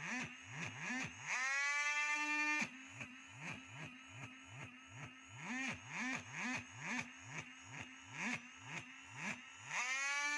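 Small electric power-tool motor spinning up and levelling off, then cutting out suddenly, at about a second and a half in and again near the end. A low pulsing hum repeats about twice a second throughout.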